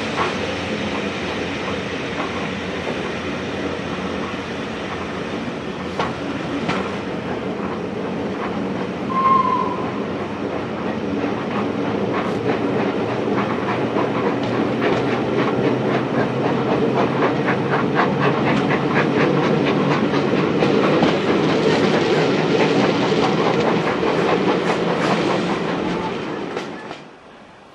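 Steam-hauled passenger train running, heard from an open carriage window: steady rolling rumble with the wheels clicking over the rail joints, the clicks more frequent in the second half. A brief high note comes about nine seconds in, and the sound drops away suddenly near the end.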